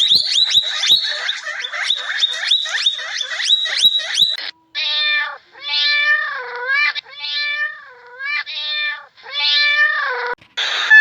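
A cat meowing about five times in a row, each meow under a second long with a dip in pitch in the middle. Before the meows comes a fast run of short high chirps, several a second.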